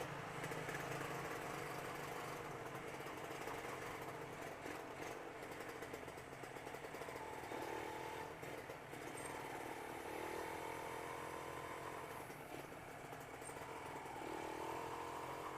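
Motorcycle engine running while riding, over a steady haze of road noise, with the engine note rising and falling several times in the second half.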